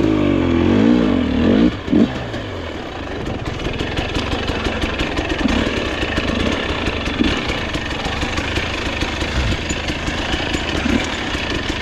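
Dirt bike engines revving up and down for the first couple of seconds, then running steadily as the bikes pull away on the trail.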